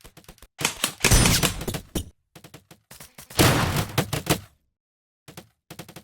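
Airsoft guns firing in rapid bursts of sharp cracks: a long burst about a second in, another about three and a half seconds in, then a short pause and a couple of brief bursts near the end.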